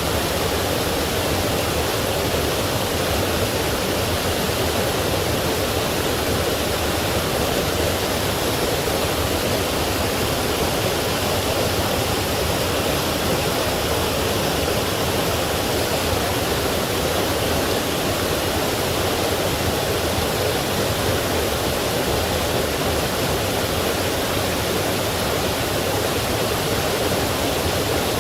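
Forest stream and small waterfall rushing steadily, a continuous full water noise with no breaks.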